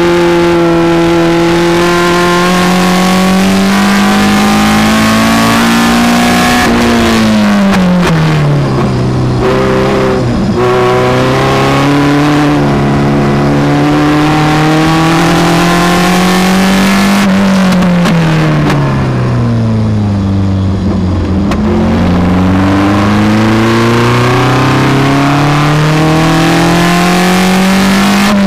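Onboard sound of a Seven-style open sports car's engine at speed on a race circuit. Twice the pitch sinks as the driver lifts off for a corner, about a quarter of the way in and again past the middle, then it climbs slowly as he accelerates back up. Wind rush in the open cockpit lies over it.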